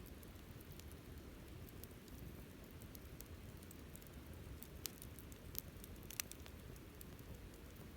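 Wood campfire burning: a faint, steady low rumble with scattered crackles and pops, three sharper pops a little past the middle.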